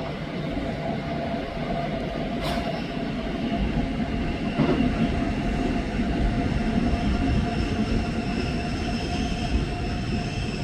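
Intermodal freight train of container and tank-container wagons rolling past: a steady rumble of wheels on rail, with thin steady squealing tones from the wheels. There is a sharp click about two and a half seconds in and a softer one about two seconds later.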